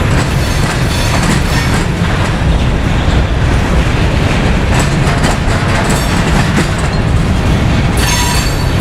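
Norfolk Southern train rolling past close by, its wheels clattering steadily over the rails. High wheel squeal joins in near the end.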